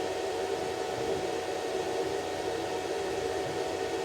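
Welding machine switched on but idle, its cooling fan and transformer giving a steady hum.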